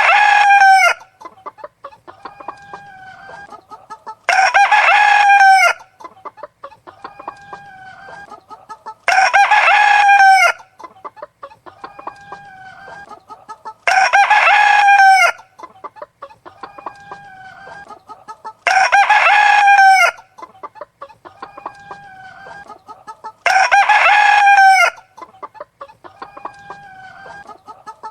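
A rooster crowing about every five seconds, each crow identical in shape like a repeating loop, with soft hen clucking between the crows.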